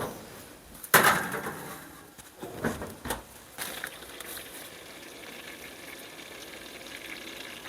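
A sharp knock about a second in, a few lighter knocks, then from about three and a half seconds a steady sizzling hiss of cooking oil heating in a frying pan.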